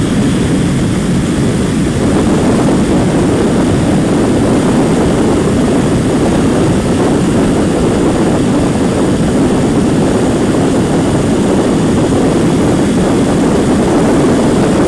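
Heavy wind buffeting on a motorcycle rider's microphone at highway speed on a Kawasaki Ninja 250, a steady dense rush that covers the bike's engine. It gets louder right at the start and again about two seconds in as the bike speeds up.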